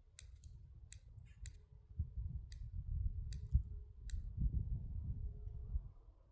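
About eight sharp, irregular clicks, mostly in the first four seconds, over a continuous low rumble.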